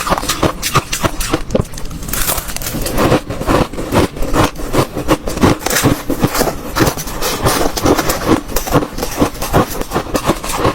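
Hard ice being bitten and chewed close to the microphone: a continuous run of sharp crunches and cracks, several a second.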